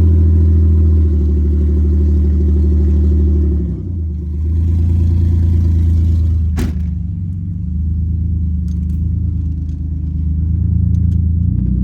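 Car engine idling just after being started, its note settling lower about four seconds in and running on steadily, with a single sharp click partway through.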